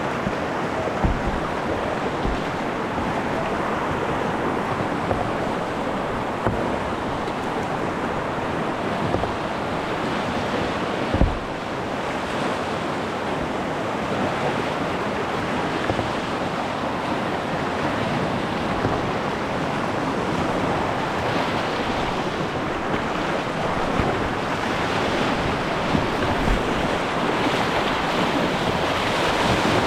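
River water rushing around a kayak in a steady, even wash, with a few low thumps, the loudest about eleven seconds in.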